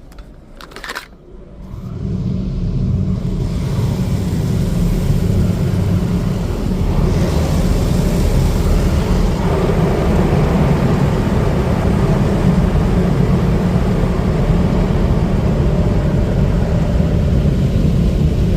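Car wash rinse and dryer equipment starting up around the car, heard from inside the cabin: a steady, loud rushing with a deep rumble that builds up a couple of seconds in and then holds.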